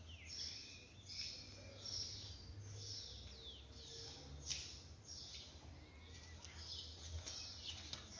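Faint birds chirping, a string of short, high, falling chirps repeating roughly once or twice a second, over a low steady rumble.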